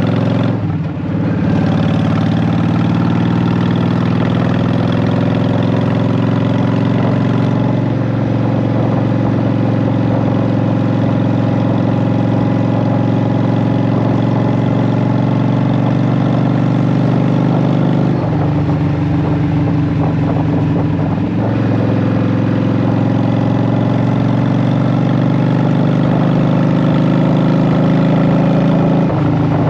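Honda Shadow VT750's V-twin engine running through Vance & Hines Short Shot exhaust pipes with a steady, even note. The sound dips briefly about a second in, and the engine note shifts past the middle, then shifts back a few seconds later.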